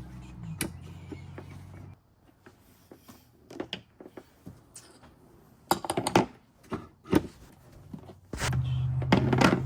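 Scattered plastic clicks and knocks as a mass airflow sensor is unclipped and worked out of an intake tract, with a steady low hum at the start that stops about two seconds in and comes back near the end.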